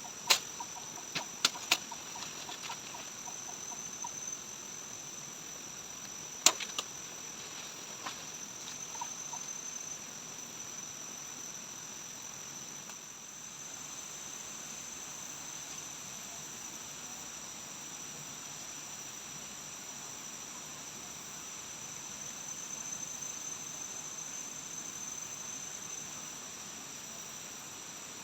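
Steady high-pitched drone of insects, crickets or cicadas, over a background hiss. A few sharp knocks in the first two seconds and one louder knock about six and a half seconds in.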